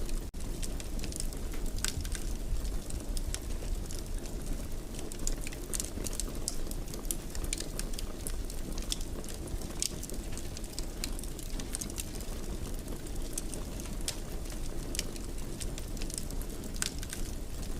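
Wood fire in a fireplace crackling steadily, with frequent small irregular pops over a low rumble. The sound drops out for a moment just after the start.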